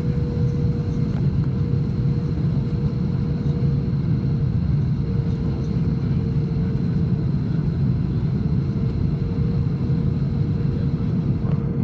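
Steady airliner cabin noise: a constant low rumble of the engines and rushing air, with a faint steady hum running through it.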